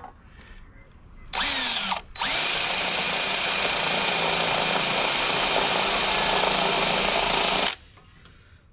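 Electric drill boring holes in the car's sheet-metal panel: a short burst with a rising whine as it spins up, a brief pause, then about five seconds of steady drilling that stops near the end.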